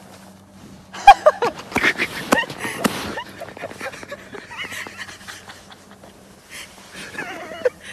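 A sudden loud hit about a second in as a man lands in deep snow, then laughter with panting, wheezing breaths and short cries that die down to quieter breathing, with one more burst of voice near the end.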